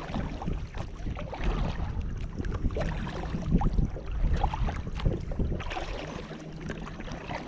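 Water splashing and lapping against a plastic sit-on-top kayak as it moves on a lake, in uneven little splashes and knocks, over a low rumble of wind on the microphone.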